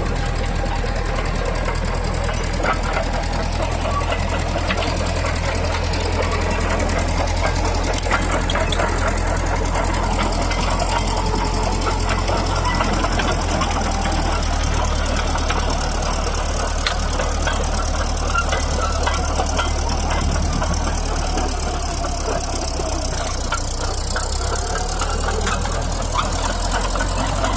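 Caterpillar D4D crawler tractor's diesel engine running steadily, with a scatter of short clicks and rattles over the engine note.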